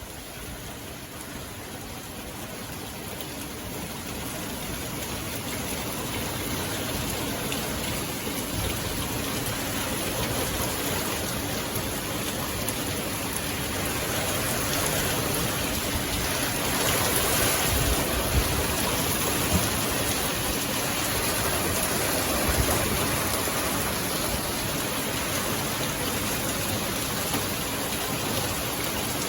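Steady nighttime rainfall, an even hiss of rain on surfaces. It grows louder over the first several seconds, then holds steady, swelling briefly about halfway through.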